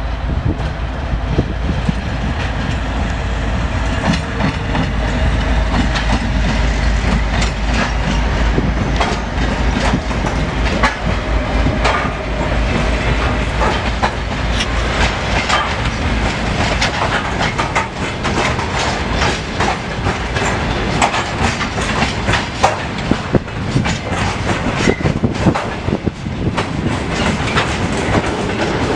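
Maintenance train hauled by a 2M62U diesel locomotive rolling past, its wheels clattering in quick irregular clicks over the rail joints above a low rumble.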